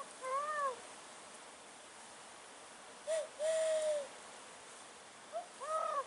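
A man imitating an owl's hoot: three two-note calls, a short note then a longer one, about every two and a half seconds, the middle one breathy.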